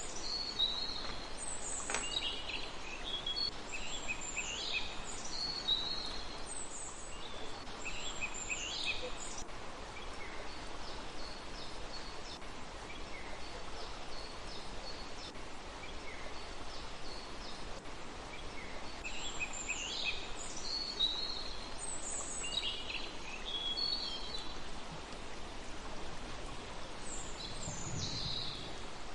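Small songbirds calling, in quick high chirping phrases that sweep downward. The phrases come in clusters, with a quieter stretch in the middle, over a steady background hiss.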